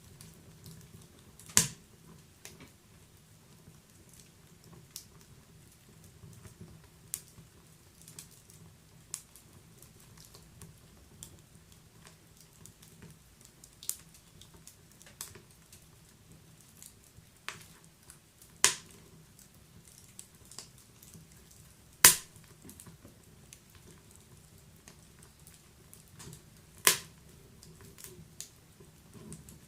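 Wood fire in a fireplace crackling with sparse, sharp pops at irregular intervals, four of them much louder than the rest, over a faint low steady rumble.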